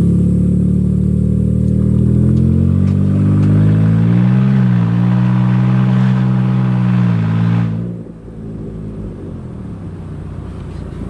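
2012 Jeep Wrangler's 3.6 L Pentastar V6 running with no exhaust past the catalytic converters, really loud under throttle as the Jeep pulls away. The pitch dips briefly twice, as the five-speed automatic shifts. About eight seconds in the throttle is released and the engine drops to a much quieter level.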